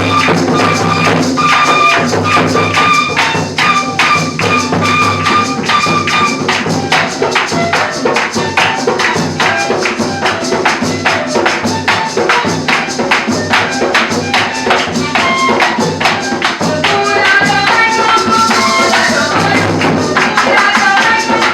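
Cumbia band playing live: a steady percussion beat with a melody over it.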